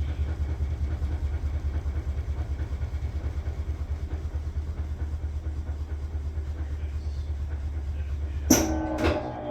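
Maytag Bravos top-load washer near the end of its rinse-and-spin cycle, its basket running with a fast, steady low pulsing. Near the end come two sharp metallic clunks that ring briefly.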